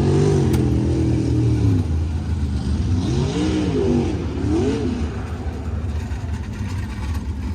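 Sprint car engines running on the dirt track, their pitch rising and falling several times as the cars come on and off the throttle, over a steady low rumble.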